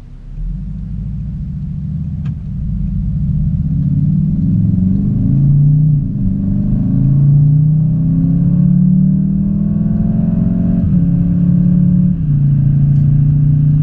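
Car engine accelerating hard through the gears, heard from inside the cabin. Its pitch climbs steadily and drops at the upshifts, about six seconds in and again twice near the end.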